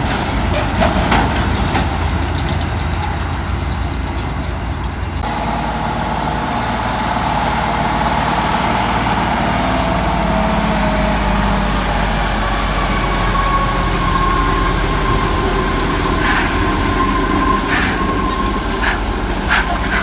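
Heavy diesel truck engine pulling uphill under load, with a steady whining tone over the engine drone. The sound changes abruptly about five seconds in, and a few short sharp sounds come near the end.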